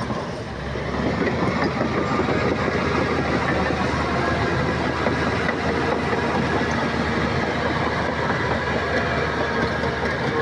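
Shantui crawler bulldozer's diesel engine running steadily with the clatter of its steel tracks, dipping briefly just after the start.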